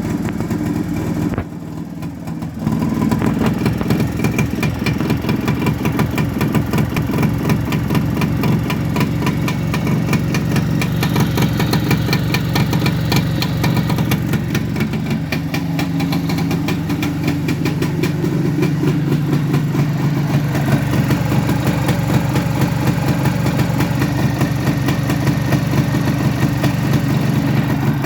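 Tula 200 single-cylinder two-stroke engine running steadily at idle, a fast even string of firing pulses. It drops briefly quieter about a second and a half in, then picks back up.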